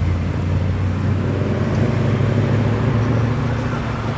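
A Holden Commodore's engine running at low revs with a deep, steady note as the car rolls slowly past, the pitch drifting only slightly.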